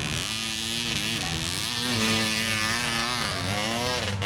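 Off-road motorcycle engines revving, the pitch wavering up and down with the throttle and climbing sharply near the end, over the steady lower hum of more bikes running.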